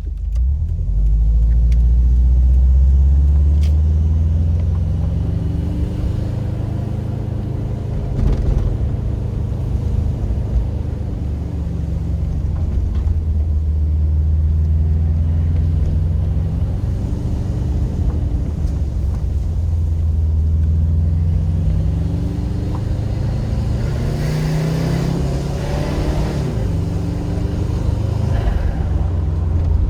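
Subaru Impreza WRX's turbocharged flat-four boxer engine running while the car is driven, its low, rumbling note rising and falling with the throttle. About three-quarters of the way through comes a stretch of brighter hiss with shifting pitch.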